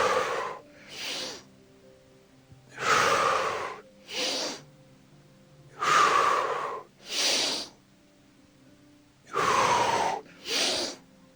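A man breathing hard in and out through the mouth, paced with exercise repetitions: four breath cycles about three seconds apart, each a longer breath followed by a shorter one. Faint background music with held notes runs underneath.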